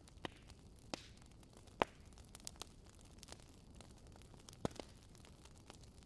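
Wood campfire crackling: irregular sharp pops and snaps, the loudest a little under two seconds in, over a low steady hiss of the burning fire.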